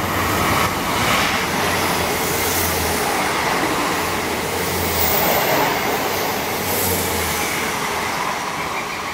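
South Western Railway passenger train passing along the platform: a steady rush of wheel and track noise, with a low rumble that swells about every two seconds as the carriages go by.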